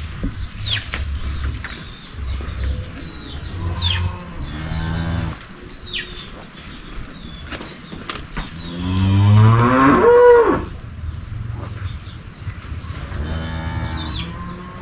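Cow mooing three times: a shorter moo about four seconds in, a long, loud moo rising in pitch and then dropping midway through, and another moo near the end.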